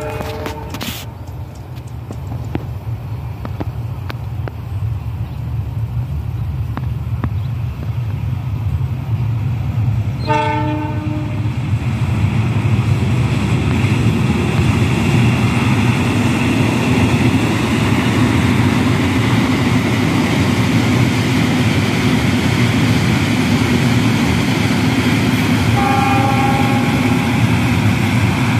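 A train approaching and passing: the locomotive's horn sounds a short blast about ten seconds in and another near the end, over a low rumble that swells into the steady rush of wheels on the rails as the train draws level.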